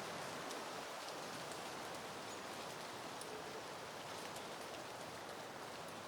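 Soft wind rustling through peony flowers and leaves: a steady, even hiss with a few faint scattered ticks.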